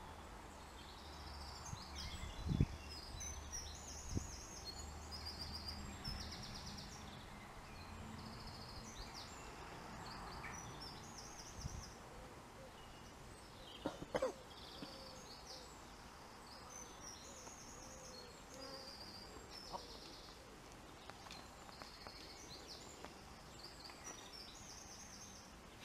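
Songbirds singing in the surrounding trees, short repeated high chirping and trilling phrases over faint steady background noise, with a few brief soft knocks, the clearest about 14 seconds in.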